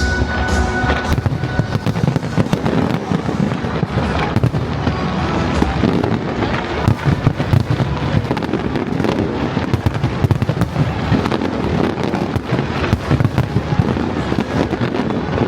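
Fireworks display in full barrage: a dense, continuous crackle of many overlapping bursts and bangs, with no pauses.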